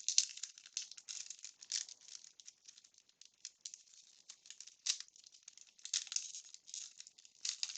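Wax-paper wrapper of a baseball card pack crinkling and crackling as it is handled and worked open, in an irregular run of small rustles with a few sharper crackles.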